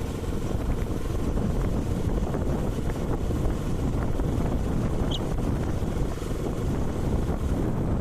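Wind buffeting the microphone of a rider on a moving Karizma motorcycle, a steady rush over the engine and road noise, with a brief high chirp about five seconds in.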